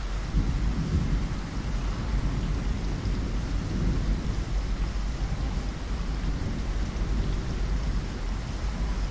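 Steady rain falling, with a low rumbling churn underneath that keeps going without a break.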